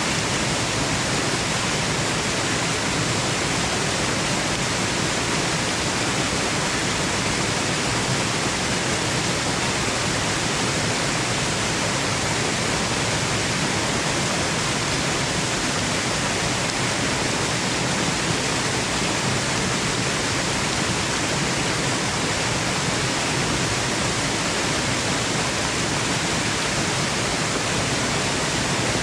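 Waterfall: a steady, even rush of falling water, with no distinct splashes or changes.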